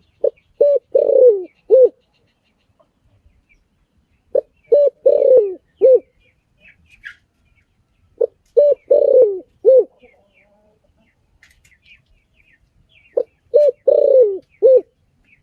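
Spotted dove cooing: four repeated phrases about four seconds apart, each a few short low coos around a longer note that falls in pitch. Faint chirps of small birds sound in the background.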